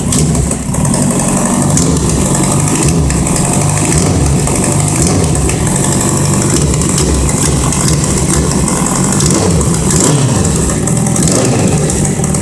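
Kawasaki Z750 inline-four engine running cold with a few light blips of the throttle, carrying a rattling knock that sounds like engine knocking but that the owner puts down to a cracked plate at the mouth of the exhaust header, a chronic Z750 fault. The sound cuts off suddenly at the end as the engine is switched off.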